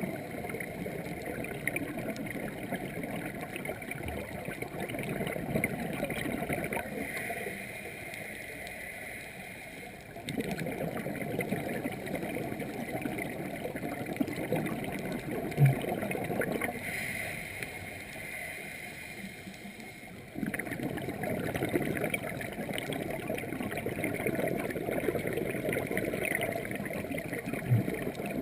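Scuba diver breathing through a regulator underwater: three long exhalations of bubbling, crackling noise, each broken by a shorter, quieter inhalation with a hiss.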